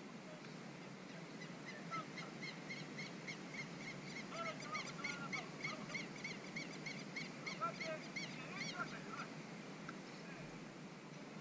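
A bird calling in a fast run of short, repeated notes, about three a second, from about two seconds in until near the end, with a few lower calls mixed in, over a steady low outdoor background noise.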